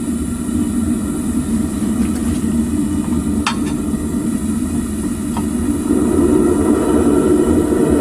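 Homemade propane furnace burner firing steadily, a continuous low flame noise that gets louder about six seconds in. Two brief metallic clicks sound near the middle.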